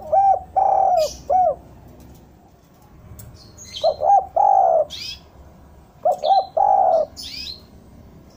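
Spotted dove (derkuku) cooing: three phrases a couple of seconds apart, each a few short coos ending in a longer one. Small birds chirp thinly in between.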